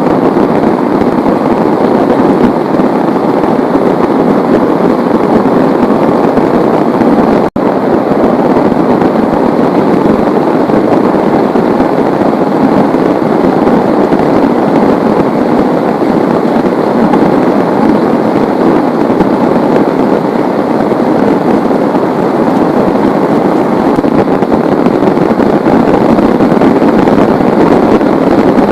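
Heavy rain pouring down in a steady, dense hiss of drops, with a split-second cut-out about seven and a half seconds in.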